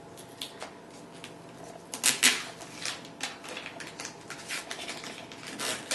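Rustling and handling noises as a card or wrapping is pulled off a new cordless vacuum, with scattered light clicks and a louder crinkling burst about two seconds in.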